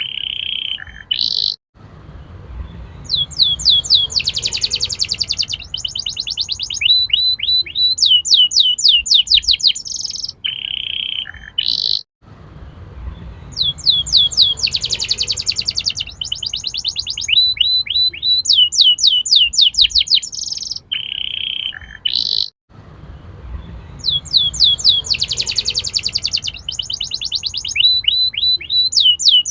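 Domestic canary in full song: loud, fast trills and rolling runs of repeated notes. The same song sequence comes round about every ten seconds, with a brief break between repeats.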